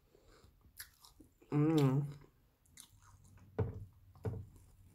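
Close-miked mouth sounds of a person biting and chewing a tuna sub sandwich, with a short wavering hum about a second and a half in and two sharp bite clicks near the end.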